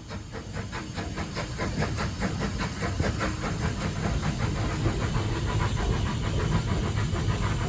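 Bulleid Pacific steam locomotive under way, heard from its footplate: a quick, even beat of exhaust chuffs, about five a second, over a steady low rumble and hiss. The draught of each beat is what pulls air through the firebox and makes the fire burn brighter.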